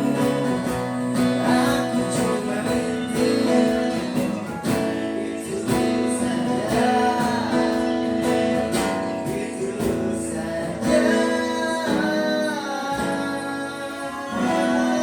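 A cover song performed on acoustic guitar, strummed, with a voice singing the melody over it.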